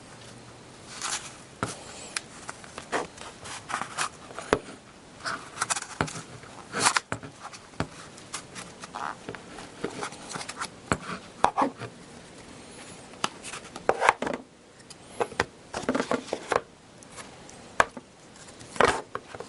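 Hands opening a sealed hockey card box and handling its packaging: irregular taps, scrapes and rustles, with a few sharper clicks.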